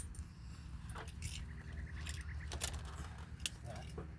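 A few scattered sharp metallic clinks and taps of hand tools being handled, over a steady low rumble.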